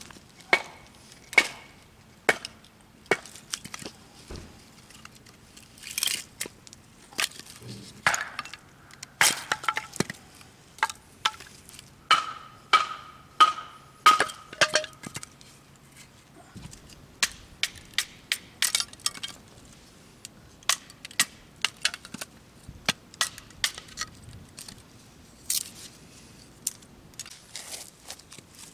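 Wood cracking and snapping in sharp, irregular cracks, several a second.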